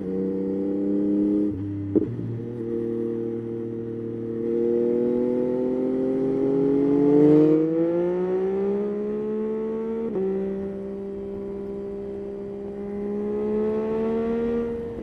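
Yamaha Tracer 9's inline three-cylinder engine pulling under acceleration. Its pitch climbs steadily, drops at a gear change about ten seconds in, then climbs again.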